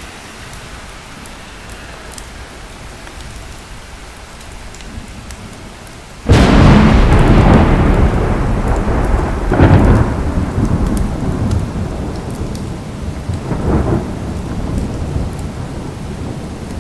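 Thunderstorm: steady rain, then after about six seconds a sudden loud thunderclap that rolls on as rumbling thunder. The rumble swells twice more and slowly dies away under the rain.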